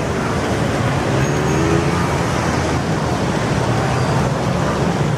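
Steady street noise: road traffic running with faint voices in the background.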